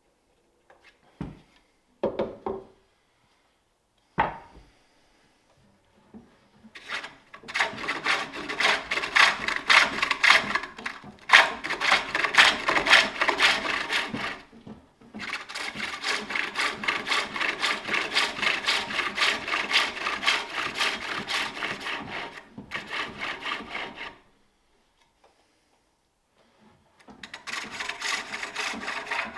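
Turning tool cutting into a wooden bowl blank spinning on a spring pole lathe: a few short knocks at first, then long runs of rapid, rhythmic scraping with brief pauses between them.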